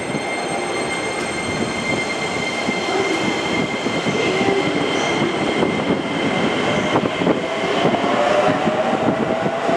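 Musashino Line electric commuter train pulling out of the station and gathering speed, its wheels running over the rails past the platform. A faint whine rises in pitch in the last few seconds as it accelerates away.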